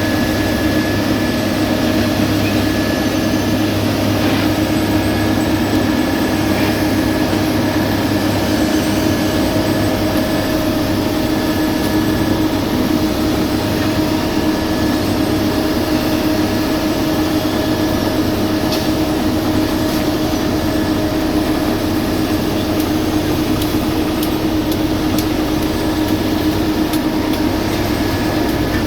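Heavy diesel road-construction machinery running steadily, a constant engine drone with a steady whine over it.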